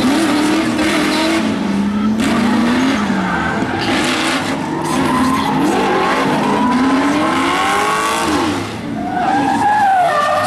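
Drift cars' engines revving hard, their pitch rising and falling with throttle and gear changes, over the hiss and squeal of tyres sliding; the sound dips briefly near the end, then picks up again.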